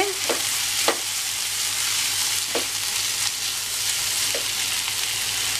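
Chopped tomato and onions sizzling in hot oil in a frying pan while being stirred with a spatula, a steady hiss with a few light knocks of the spatula against the pan.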